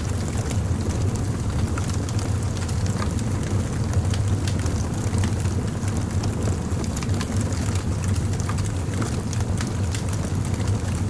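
Campfire of burning wood logs crackling, with frequent small sharp pops and snaps over a steady low rumble.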